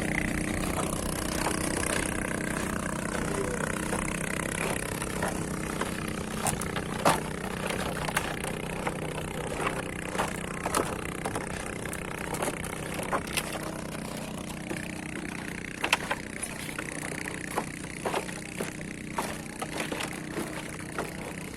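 A 40 hp outboard motor idling steadily, with many scattered knocks and clicks that grow more frequent in the second half.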